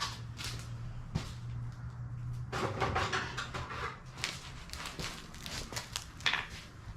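Small metal parts being handled and fitted by hand: scattered sharp clicks and a rustling scrape, over a steady low hum.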